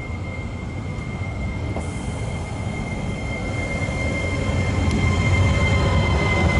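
A train rumbling and growing steadily louder as it draws near, with a steady high-pitched squeal held over the rumble.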